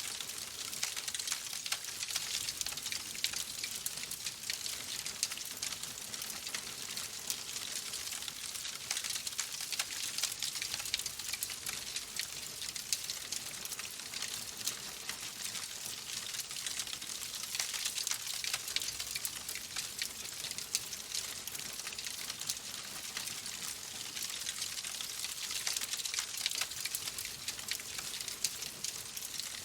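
Wood fire in a fireplace crackling steadily: a dense scatter of small pops and snaps over a soft hiss.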